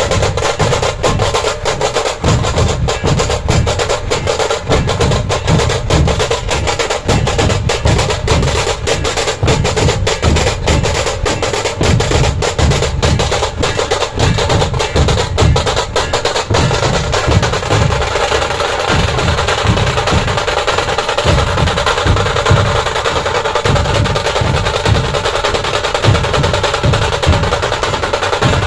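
Dhol-tasha ensemble drumming: heavy barrel-drum dhol beats under rapid, sharp tasha strokes. The fast strokes blur into a continuous roll about two-thirds of the way through.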